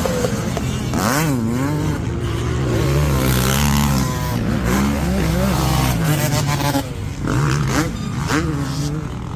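Dirt bike engines revving hard, the pitch climbing and dropping again and again with throttle and gear changes.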